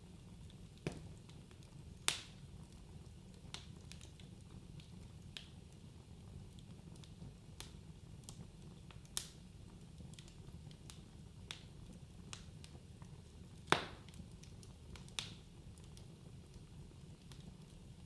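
Wood fire crackling in a fireplace: sharp, irregular pops and snaps every second or so over a low, steady rumble. The loudest pops come about two seconds in and again near fourteen seconds.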